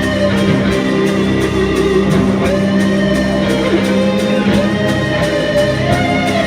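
Rock band music: an electric guitar playing long held lead notes with a few bends, over a steady drum beat.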